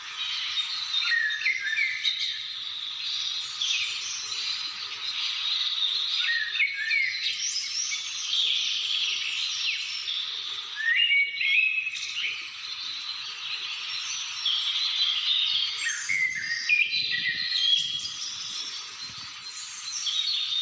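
Many small birds chirping and calling at once in a dense, overlapping chorus of short rising and falling notes.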